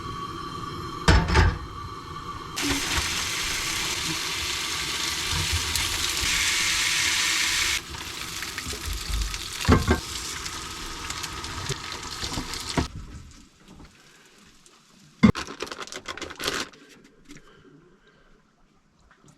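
Food sizzling in a frying pan, a steady hiss for about five seconds that then turns rougher, with a few knocks of utensils on the pan. It dies away about two-thirds of the way through, leaving only scattered clicks.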